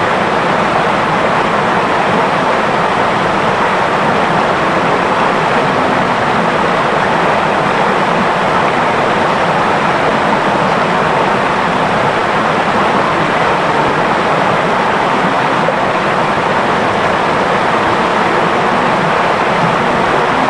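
Clear river flowing and babbling, a steady even rush of water with no breaks.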